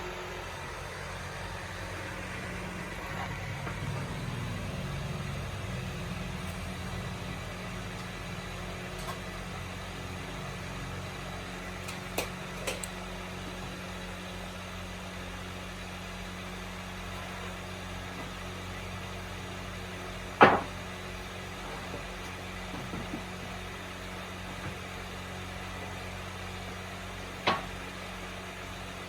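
A steady low machine hum with a few sharp knocks over it: two close together about twelve seconds in, the loudest about twenty seconds in, and one more near the end.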